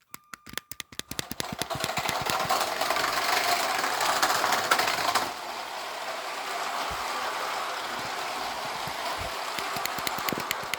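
Motorised Lego train running on plastic track: a fast run of clicks from the wheels and a steady whir that swells to its loudest within the first five seconds, then eases off a little and holds steady, with the clicks coming through plainly again at the end.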